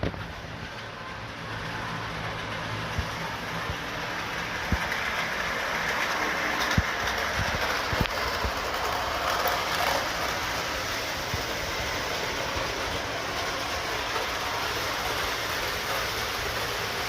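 Lionel model train running on the track: a steady motor-and-wheel running noise, with sharp clicks every second or two as the wheels pass over rail joints.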